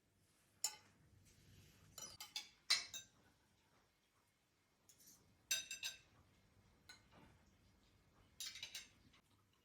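Dishes and metal utensils clinking and knocking together in a few separate bursts: a single clink, then quick runs of clinks about two, five and a half, and eight and a half seconds in.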